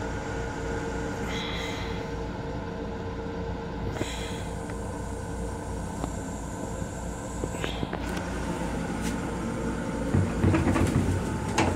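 Steady low rumble and hum of an M7 electric railcar heard from inside its small restroom, with brief faint high squeals about a second in and again about four seconds in. The rumble grows louder near the end.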